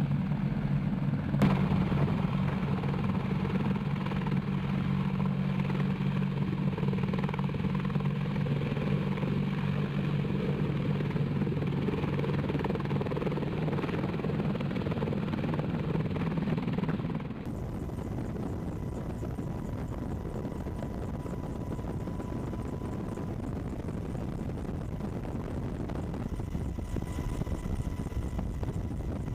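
AH-64 Apache helicopter's engines and rotor running steadily, a low hum with several held tones. About 17 seconds in, the sound changes abruptly to a quieter, even rushing noise with a faint high tone.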